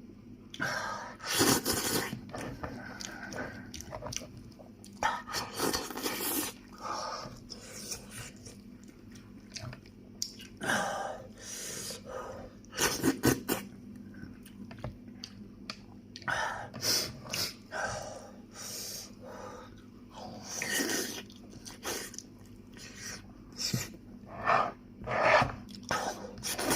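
A man chewing and biting into a fried animal head: irregular crunches and chewing noises, some louder bites scattered through.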